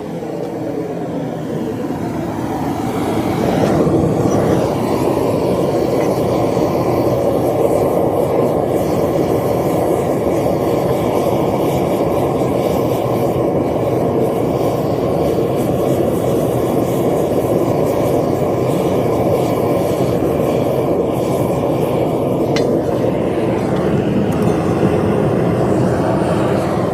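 Propane torch firing a small metal-melting furnace, a loud, steady rushing noise that grows over the first few seconds and then holds level. The furnace is running at full heat, hot enough to hold copper molten in its crucible.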